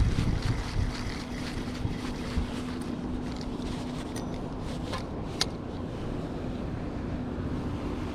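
Outdoor wind rumble on the microphone with a faint steady hum underneath, and a few sharp clicks about midway.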